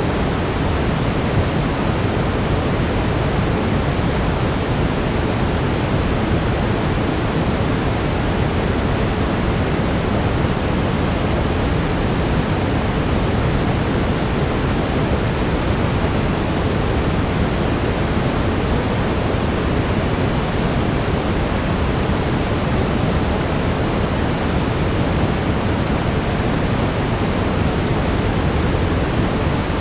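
Steady brown noise: an even, unchanging hiss weighted toward the low end.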